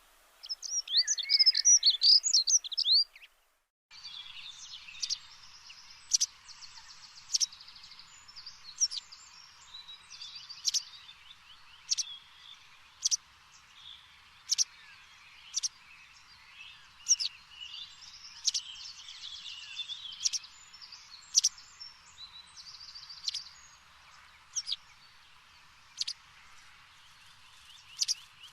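Birds chirping. A burst of loud, fast twittering is followed by a brief gap, then short sharp calls come about once a second over softer trills and a faint steady hiss.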